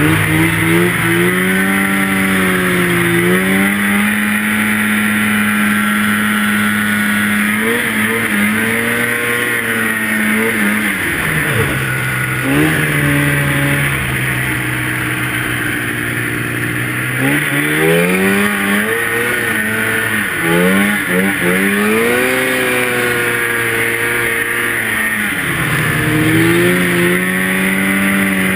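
Two-stroke snowmobile engine running hard, its pitch holding steady for stretches and then dropping off and climbing back several times as the throttle is let off and opened again.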